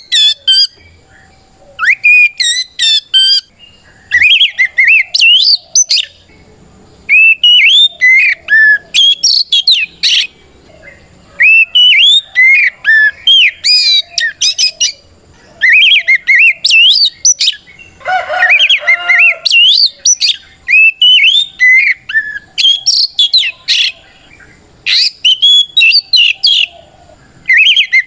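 Oriental magpie-robin (kacer) in full, loud song: bursts of rapid, gliding whistled phrases a second or two long, broken by short pauses, with a harsher, rasping note about two-thirds of the way through. This is the bird's challenging song, calling out to a rival.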